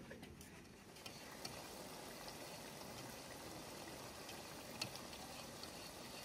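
Chopped fenugreek leaves frying down in oil in a wide pan, a faint steady sizzle that comes in about a second in, with a few light clicks of the spatula stirring.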